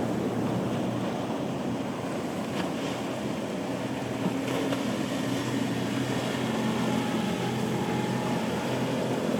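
Boat engines running with a steady low drone, over a wash of waves and wind.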